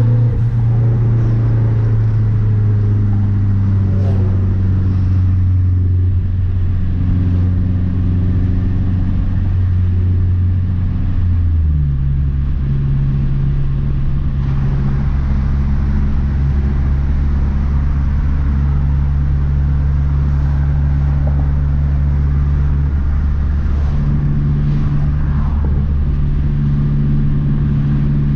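Turbocharged 2.3-litre four-cylinder of a 2012 Mazdaspeed 3, fitted with a bigger turbo, running at steady revs while driving. Its note drops to a lower pitch about twelve seconds in as the revs fall, then holds steady again.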